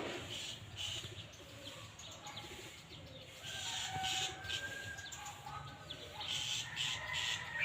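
A bird calling: short repeated chirps, with a few thin whistled notes from about halfway in.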